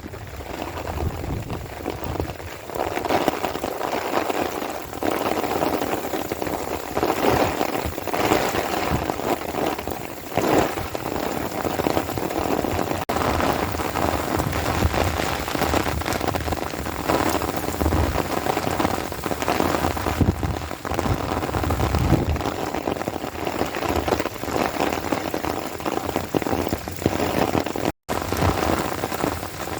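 Rain falling steadily and pattering on surfaces, picked up by a phone's microphone, with a brief break near the end.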